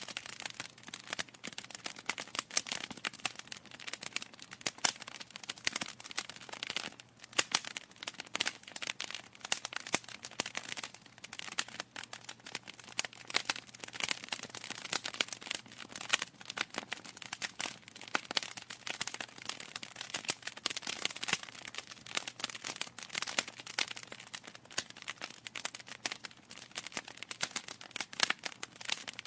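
Wood fire in a fireplace crackling and popping continuously, with dense irregular snaps from the burning logs.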